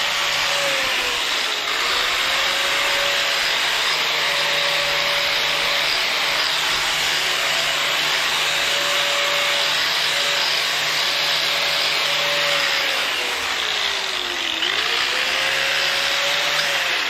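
A power tool spinning a wire wheel, scrubbing caked dirt and oil off cast-iron tractor counterweights. It runs steadily, and its motor pitch sags twice, about a second and a half in and again near the end, as it is pressed hard into the metal, then recovers.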